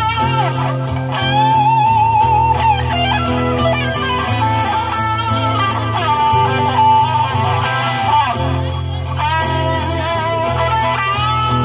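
Live band playing an instrumental break: a lead guitar melody with vibrato over a steady bass line.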